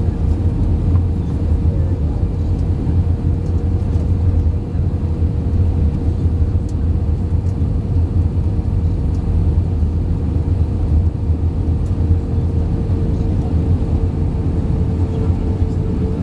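Cabin noise inside an Airbus A320-232 in flight: a steady, loud rumble of engines and airflow with a steady hum running through it.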